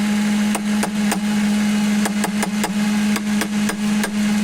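Ford Mustang 4.6 V8 idling with a steady horn-like drone from the air intake, while a valve on the intake is tapped repeatedly, a dozen or so sharp knocks. The drone wavers briefly at some of the taps, and comes from that valve, dirty inside, which the mechanic takes to be faulty.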